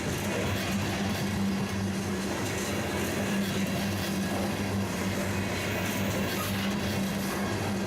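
Freight train passing: a continuous rumble with a steady low hum.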